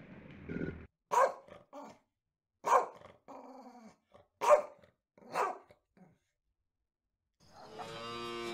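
A Shar Pei dog barking four times, short barks about a second and a half apart. Near the end a cow starts a long moo.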